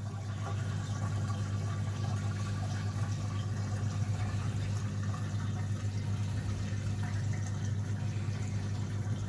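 Lenco washing machine draining: its pump gives a steady low hum as it pumps the water out.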